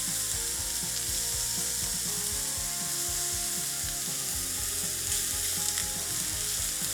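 Chicken thigh pieces sizzling as they fry in a hot pan: a steady hiss with rapid, irregular crackles and ticks. The pan is hot enough that the meat is catching and charring.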